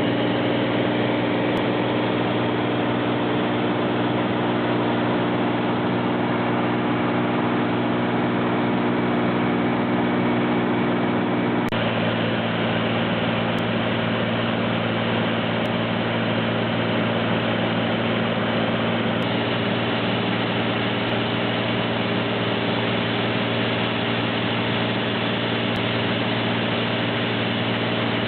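Light aircraft's engine and propeller droning steadily in flight. The tone shifts slightly about twelve seconds in and again a few seconds later.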